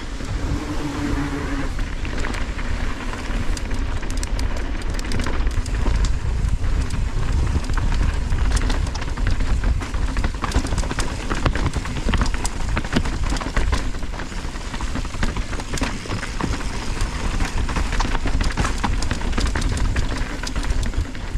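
Mountain bike riding down a rough downhill trail: wind buffeting the microphone, tyres rolling over dirt and rocks, and the bike rattling and knocking over the bumps.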